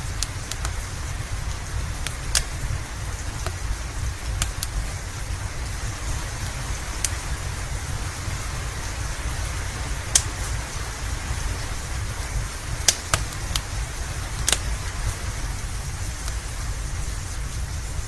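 Steady rain with a low rumble underneath, and a wood fire in a fireplace giving a few sharp crackling pops scattered through it.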